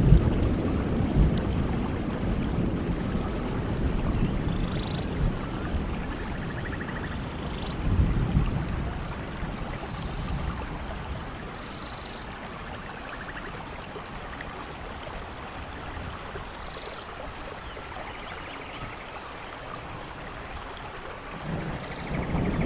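Steady rain with rolling thunder. The thunder rumbles at the start and again about eight seconds in, dies away to rain alone, and starts building again near the end.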